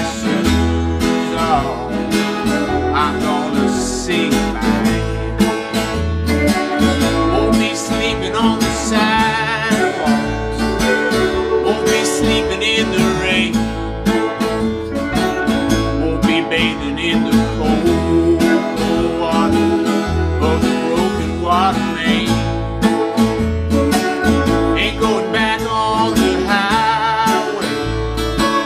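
An Americana/blues string band playing with a steady beat: acoustic guitar, fiddle, electric guitar and bass, with wavering melody lines over the rhythm.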